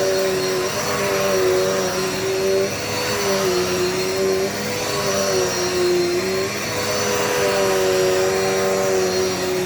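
Dirt Devil multi-surface vacuum cleaner running steadily while vacuuming, its motor hum shifting slightly in pitch every second or two, with a faint high whine over it.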